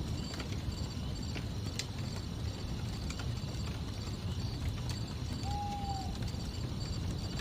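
Campfire burning: a steady low rumble of flames with scattered sharp crackles and pops from the burning wood. Crickets chirp faintly in the background, and a brief whistling tone sounds about five and a half seconds in.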